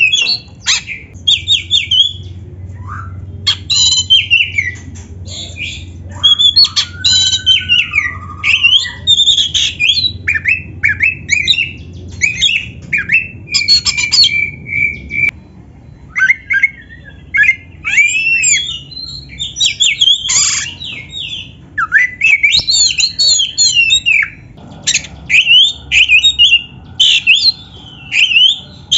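Oriental magpie-robin (kacer) singing a fast, varied song of sweeping whistles, chattering trills and harsh squawky notes, packed with mimicked calls of other birds, with only brief pauses.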